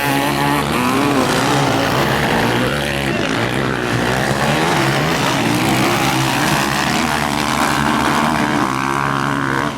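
Motocross bike engines running hard, their pitch rising and falling as the throttle opens and closes.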